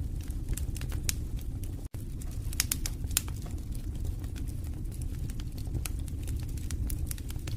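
Wood fire in a fireplace crackling, with irregular sharp pops and snaps over a low steady rumble of the flames. A split-second dropout breaks the sound about two seconds in.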